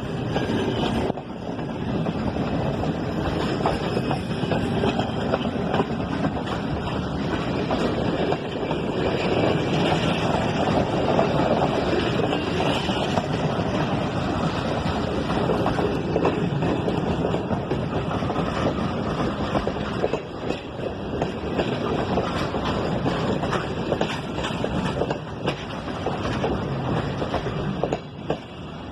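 Passenger train hauled by a TGM8KM diesel locomotive running past, a steady rumble and rattle of the train on the rails.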